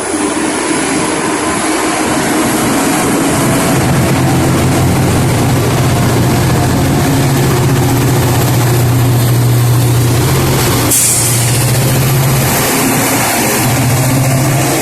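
MBTA commuter rail diesel locomotive 1067 running at a standstill with a steady low engine drone. A sudden hiss of released air comes about eleven seconds in.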